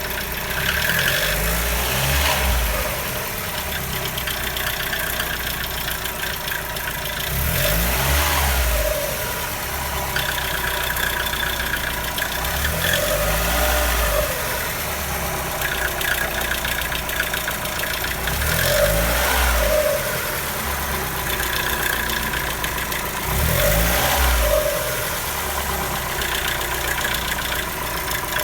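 Mazda Miata NB's inline four-cylinder engine idling with a weird, unexplained noise; a low rumbling swell comes back about every five to six seconds.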